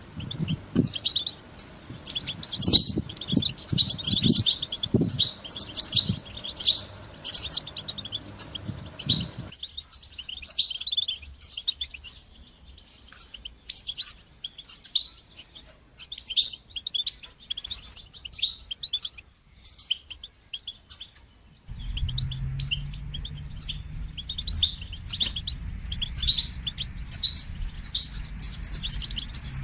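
European goldfinch singing: a fast, continuous twittering of high chirps and trills. The background changes abruptly twice, going quiet about a third of the way in and picking up a low hum about two-thirds in, as if separate recordings were joined.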